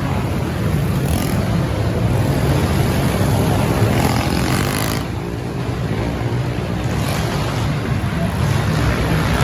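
Small dirt-bike engines running and revving, their pitch rising and falling.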